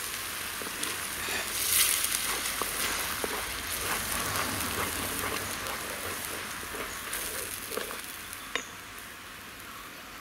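Ground tomato paste sizzling in hot oil and onion-ginger-garlic paste in a clay pot, stirred and scraped with a wooden spatula. The sizzle is loudest about two seconds in and eases off near the end.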